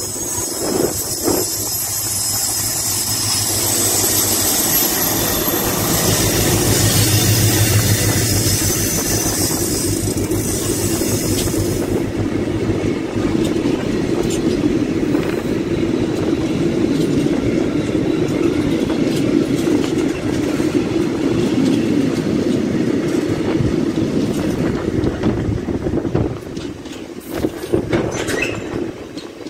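Freight train of tank wagons passing close by. The locomotive goes past over roughly the first ten seconds, then the wagons rumble and clatter steadily over the rails, with a brief wheel squeal near the end.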